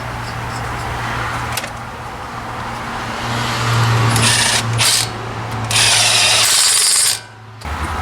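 A power tool running in three short bursts over a steady low shop hum, during a kingpin and seal job on a medium-duty truck's front axle.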